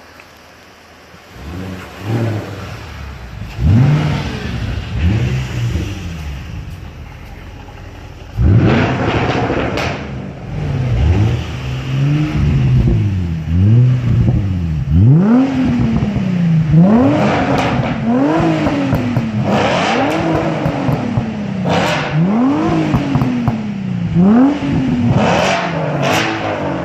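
A car engine with a modified exhaust is revved repeatedly while standing still. The pitch climbs and drops with each blip of the throttle. After a few short blips and one big rev, the revs come about every two seconds.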